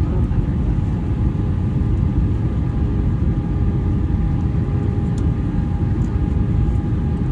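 Airbus A320 cabin noise: a steady, low roar of airflow and engines, with several faint, steady whining tones from the engines on top.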